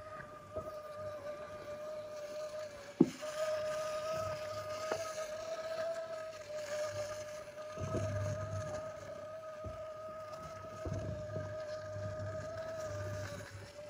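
A small motor or engine running steadily at a constant, slightly wavering pitch. Wind gusts on the microphone come and go, and there is a sharp knock about three seconds in.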